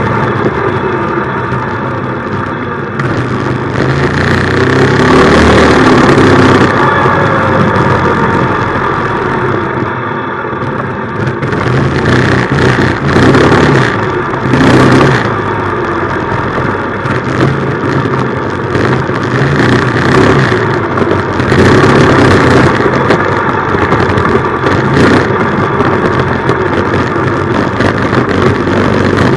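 Minibike's small engine running under way, its pitch and loudness rising and falling as the throttle is opened and eased off several times, with a rushing hiss over it.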